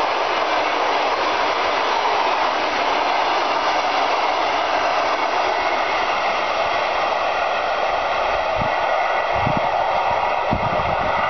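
Passenger coaches rolling past on the rails: a steady wheel-on-rail rumble and hiss. A few low thumps come in near the end.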